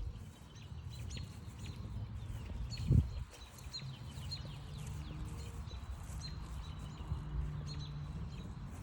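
Many short, high calls from wild animals repeating over a low steady hum, with one loud thump about three seconds in.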